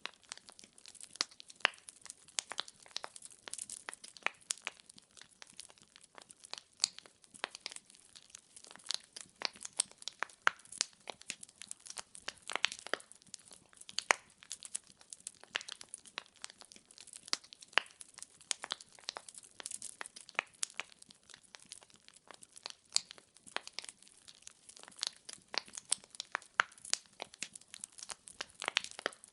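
Burning firewood crackling and popping: a dense run of sharp, irregular snaps over a faint hiss.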